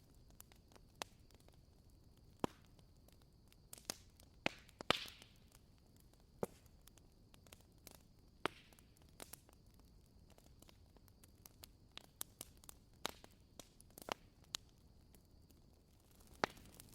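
Burning firewood crackling faintly: irregular pops and snaps over a low hiss, with one louder pop about five seconds in.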